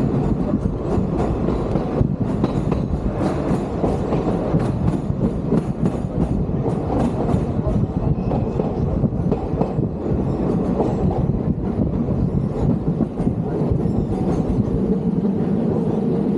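Vintage train running along the track: a steady rumble with frequent irregular clicks and knocks from the wheels on the rails.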